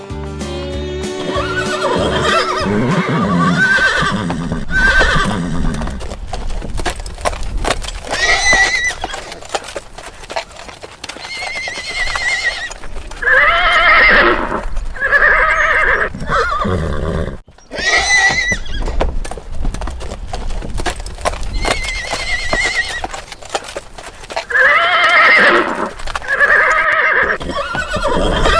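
Horses neighing again and again, with hooves clip-clopping, over background music.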